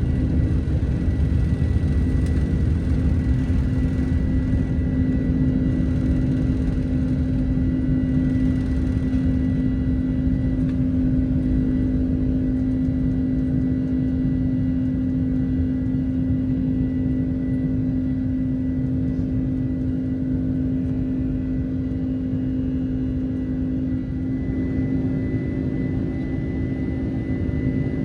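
Cabin sound of a Boeing 767-300ER's twin jet engines at climb power just after liftoff: a steady low drone with a strong constant hum and a faint high tone. The rushing hiss on top eases a little about ten seconds in.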